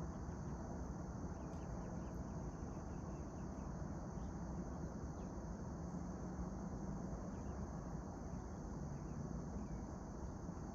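Outdoor morning ambience: a steady low rumble and a steady high hiss, with faint, brief chirps now and then that may be small birds.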